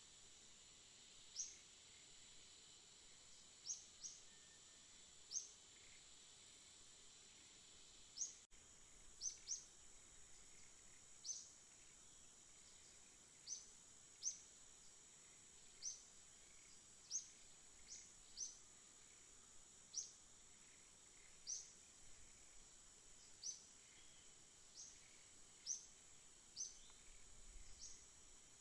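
A songbird giving short, sharp, high chirps, one about every second, over a faint steady high-pitched drone. The sound drops out for an instant about eight seconds in.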